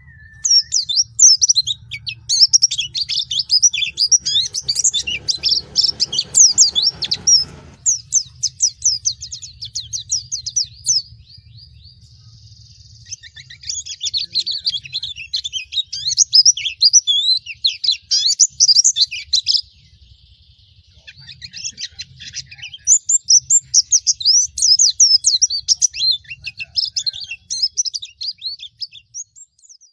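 Pleci (white-eye) singing a fast, high-pitched twittering song in long runs, with two short pauses.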